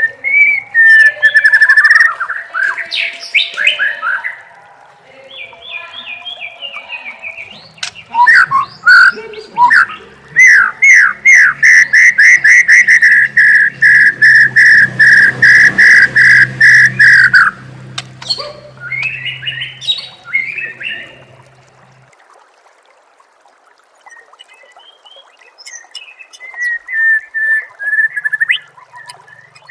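Songbird singing in varied whistled phrases, then a long run of rapid, loud repeated notes lasting about seven seconds in the middle, followed by a short lull and softer phrases near the end. A faint low hum lies beneath the middle part.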